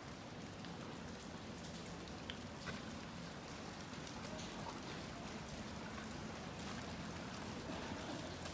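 Steady pattering of wet snow falling on surfaces, with many fine ticks of flakes and drops landing.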